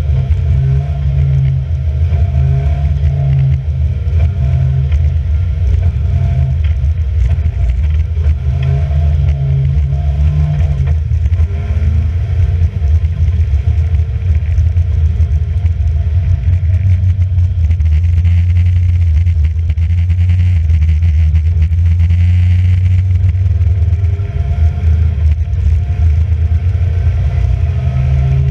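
Racing car engine running under load without a break, its pitch shifting up and down several times with throttle and gear changes.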